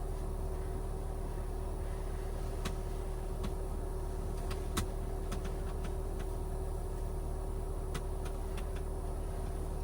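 Steady machine hum of a 12V air conditioner running in a van's cabin, with a few light clicks now and then.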